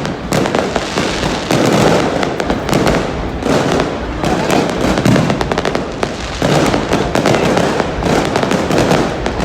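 Fireworks going off without pause: many overlapping bangs and crackles.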